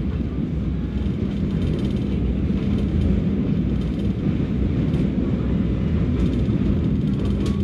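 Passenger train running at speed: a steady rumble of wheels on rails with an even low hum.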